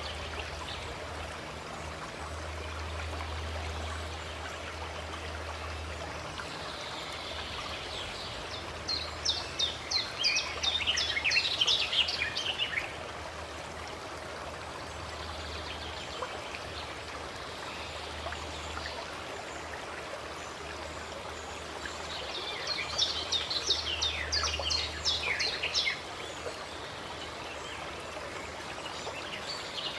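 Running water from a stream or spring, a steady rushing trickle. Over it a songbird sings two bursts of rapid high chirps, about a third of the way in and again about three quarters of the way in.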